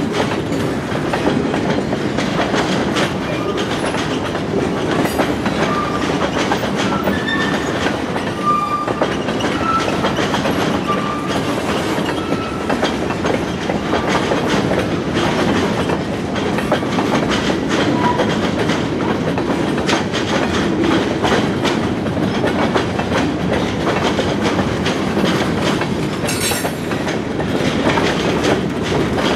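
Freight train cars rolling past with a steady rumble and clatter of wheels on rail, with short high wheel squeaks through the middle and a brief hiss near the end.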